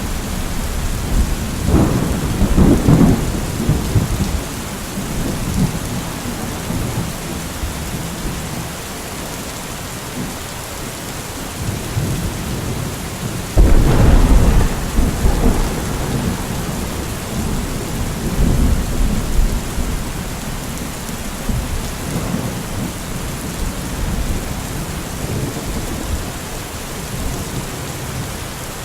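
Steady rain falling in a thunderstorm, with two rolls of thunder: one about two seconds in and a louder, sharper clap about fourteen seconds in, each rumbling away over several seconds.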